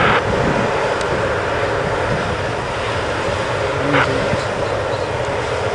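Steady, even jet noise from F-15 fighters' twin turbofan engines running at taxi power as the jets move along the runway.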